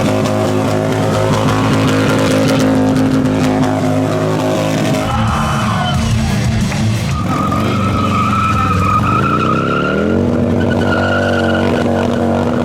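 Motorcycle engine held at high revs. The revs drop about five seconds in and climb again around nine to ten seconds, with a wavering tyre squeal over the top.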